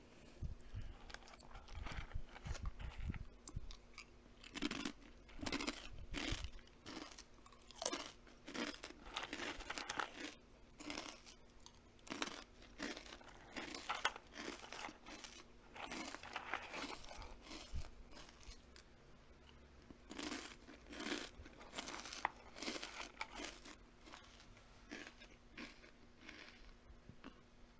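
Close-up crunchy chewing: something crisp being bitten and chewed, with irregular crunches roughly one or two a second.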